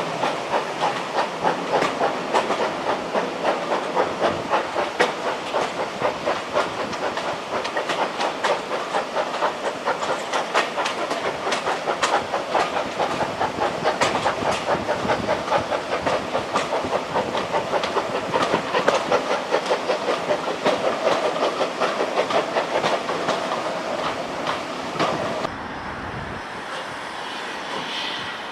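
A train running past with a fast, regular beat, about two to three a second, along with hissing. Near the end the beat gives way abruptly to a steadier, softer rushing noise.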